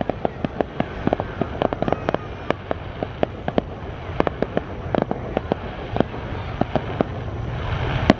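Fireworks display: a rapid, irregular string of sharp bangs and cracks, several a second, with a crackling hiss that builds near the end.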